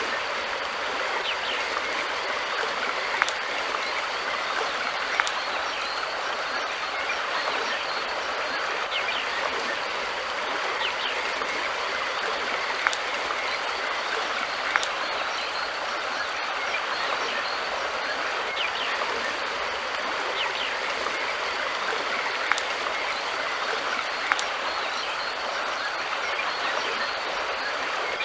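River water flowing steadily over a streambed, with a few sharp clicks now and then.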